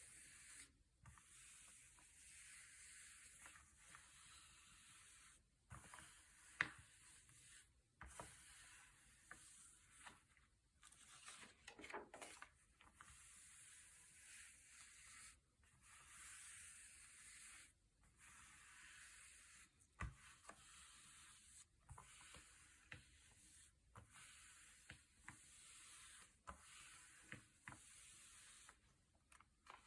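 Thick, glossy paper pages being turned and brushed by hand: quiet rustling swishes with occasional sharp page snaps, the crispest about a third of the way in.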